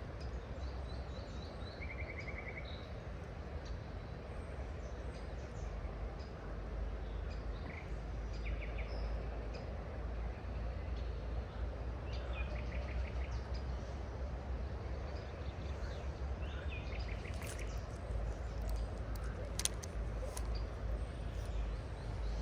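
Small birds chirping in short, quick trills over a steady rushing noise of flowing water with a low rumble. A few sharp clicks come near the end.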